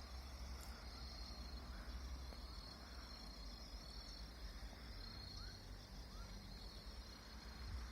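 Insects trilling steadily in a high-pitched chorus, with a few brief rising bird chirps in the middle, over a low steady rumble.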